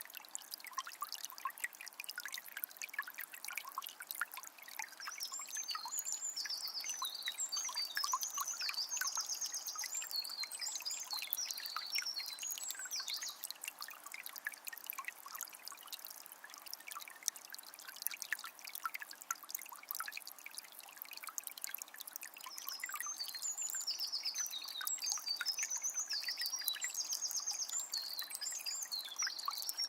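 Small spring trickling and splashing steadily, full of tiny drips and plops. A songbird sings two long, high twittering phrases with rapid trills: one about five seconds in, and another from about twenty-three seconds in.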